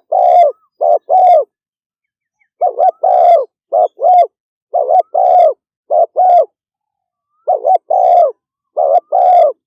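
Spotted dove cooing fast and insistently (the 'thúc gù' coo), in repeated phrases of a short coo followed by a longer one, with brief silent pauses between phrases.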